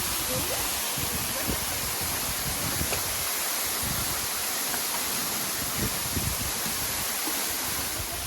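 Steady rushing of falling water from a 33-metre waterfall.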